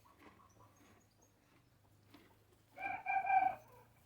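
A chicken calls once about three seconds in: a short, steady-pitched call in two parts, under a second long.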